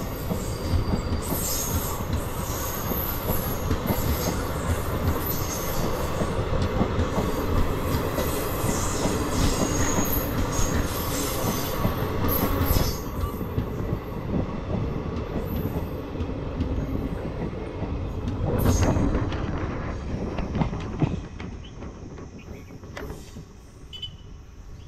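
Indian Railways passenger train coaches rolling past, their wheels rumbling on the rails with high squeals. The noise fades near the end as the last coach moves away.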